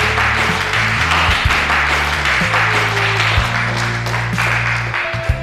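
A group of people applauding over background music with low held notes.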